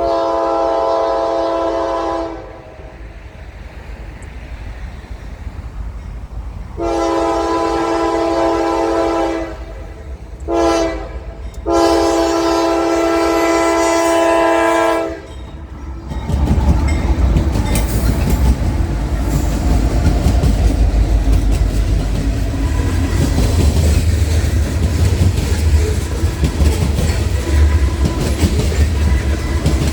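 Locomotive horn sounding two long blasts, a short one and a final long one, the standard signal for a grade crossing. From about 16 seconds in, the train passes close by with a heavy rumble and wheels clicking over the rail joints.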